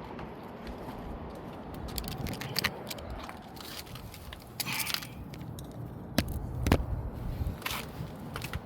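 Hands handling a new oil filter and its packaging: scattered clicks, scrapes and crackles, with two sharper knocks a little past six seconds in.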